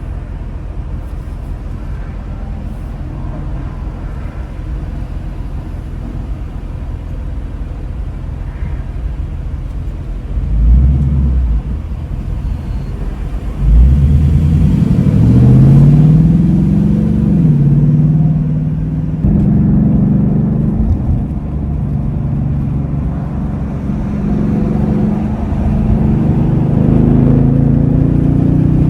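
Ford Mustang GT's 5.0-litre Coyote V8 engine and exhaust while driving: a steady low rumble, a brief surge about ten seconds in, then hard acceleration from about fourteen seconds with the pitch climbing. The pitch falls back around seventeen seconds, and the engine then runs on under varying throttle.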